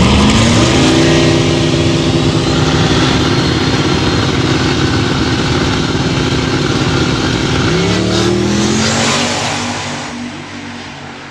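Drag-racing car's engine revving up sharply and holding at high revs for several seconds. The pitch dips and climbs again about eight seconds in, like a gear change, then the sound fades away.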